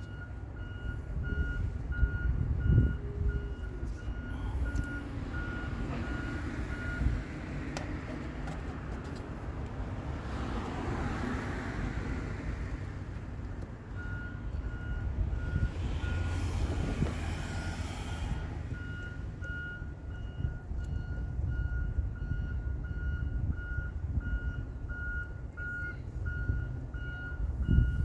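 A truck's reversing alarm beeps in an even series of short, high beeps, about two a second. It stops for several seconds in the middle and then resumes. A low engine rumble runs underneath, with two swells of hiss while the beeping pauses.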